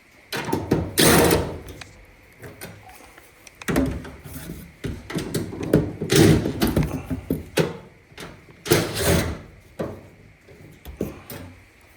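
Knocking, clattering and scraping from parts of a Whirlpool Duet dryer's cabinet being handled while it is taken apart. The sounds come in several irregular bouts of knocks, loudest about a second in and again about nine seconds in.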